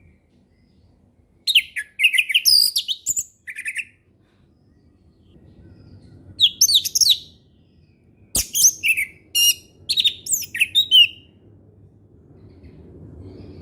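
Orange-headed thrush singing in three bursts of quick, varied whistled phrases, with pauses between them. A sharp click comes just before the third burst, and a low rumble runs under the second half.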